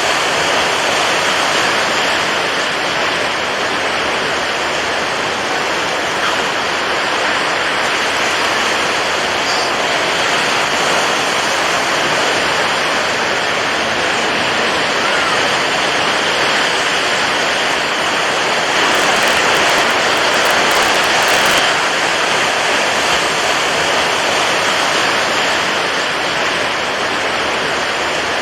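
Steady rushing water, an even wash of noise that holds the same loudness throughout without distinct swells or breaks.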